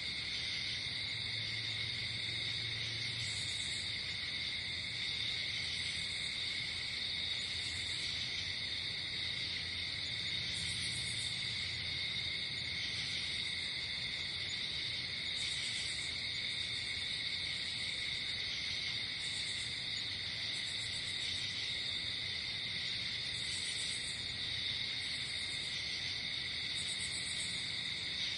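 Night chorus of crickets and other insects chirring steadily without a break, with a higher-pitched insect trill coming and going every second or two.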